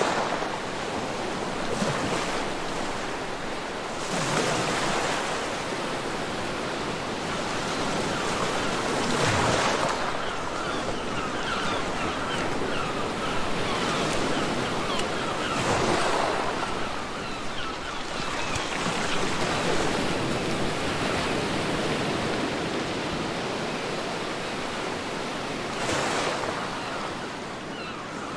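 Ocean waves breaking on a beach: a steady wash of surf that swells into a louder surge every few seconds.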